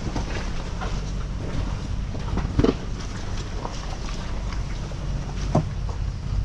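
4x4 crawling slowly over a rocky trail: a low, steady engine and tyre rumble with scattered knocks and creaks from rocks and suspension, and two louder knocks, about two and a half and five and a half seconds in.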